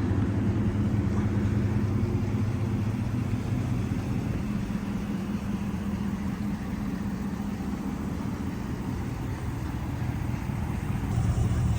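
Ram 1500's 5.7-litre HEMI V8 idling steadily, a low even hum.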